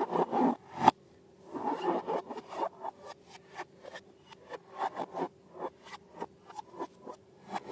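Slime being worked by hand, with irregular rubbing and short sticky clicks and crackles; one sharp click about a second in.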